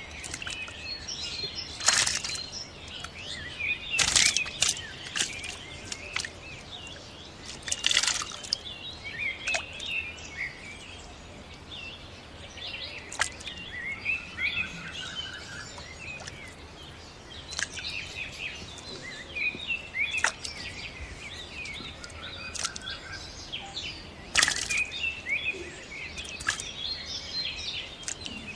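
Small birds chirping and twittering, with a handful of short, louder water splashes scattered through it.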